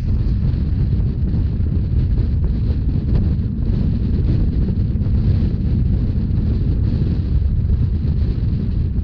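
Wind buffeting the microphone on a moving Rhaetian Railway train, over a steady low running rumble.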